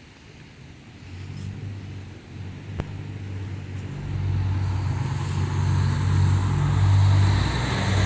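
A car engine running close by, its low hum getting louder from about a second in and louder still from about four seconds in.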